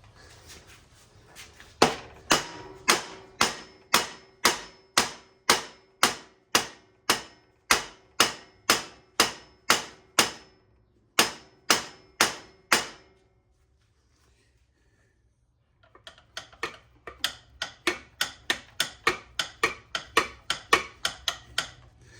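Hammer blows driving a new nylon steering stem bushing home on a Suzuki LT-Z400 quad, the steering stem used as a driver. Steady, hard strokes about two a second, a pause of about three seconds, then lighter, quicker taps until the bushing is seated.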